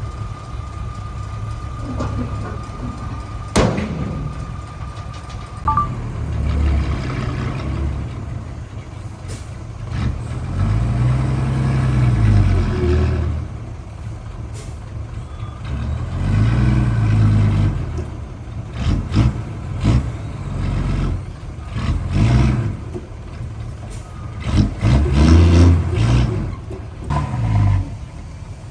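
Heavy diesel earthmoving machinery running, its engine revving up and down in repeated swells, with scattered clanks. A steady high tone sounds through the first six seconds and then stops.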